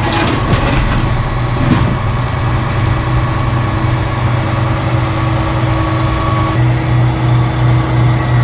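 Heavy grapple truck's diesel engine running steadily, with a few knocks in the first couple of seconds. The sound changes abruptly near the end.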